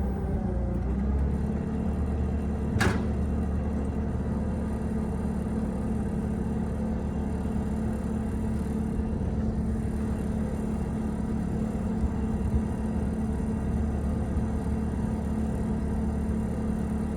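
An engine idling steadily, with one sharp click about three seconds in.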